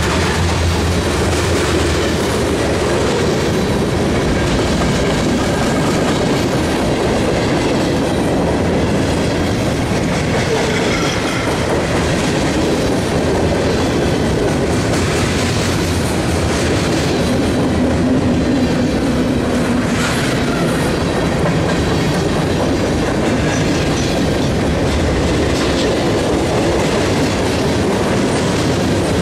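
Freight cars, covered hoppers and boxcars, rolling past close by: a steady loud rumble of steel wheels on rail with a clickety-clack over the rail joints and a faint wheel squeal now and then.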